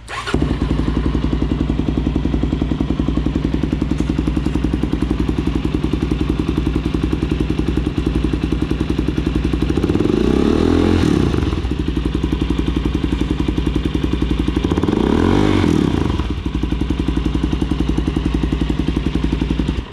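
2019 Suzuki DR-Z400SM's single-cylinder four-stroke engine with a Two Brothers aftermarket exhaust starts at once and idles with an even pulse. It is revved and let back down twice, about ten seconds in and again about five seconds later, then shut off right at the end.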